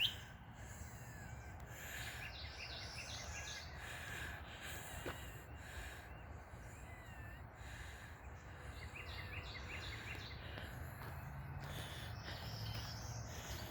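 Wild birds calling in short, quick runs of high chirping notes, several times, over a faint steady low background hum.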